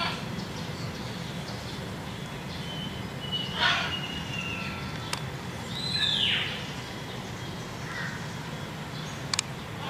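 A few bird calls over a steady low background hum: a short harsh call followed by a thin held whistle about a third of the way in, then a clear call that arches and falls about six seconds in. Two sharp clicks come near the end.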